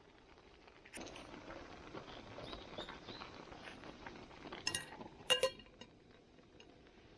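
Camp cookware clinking: a couple of sharp metal-on-metal clinks about five seconds in, the second the loudest, over a faint crackling hiss.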